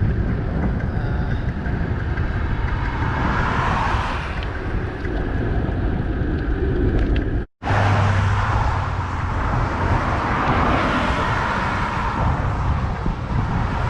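Wind rushing over the microphone of a moving bicycle, mixed with road traffic noise that swells twice as vehicles pass. The sound cuts out for an instant about halfway through.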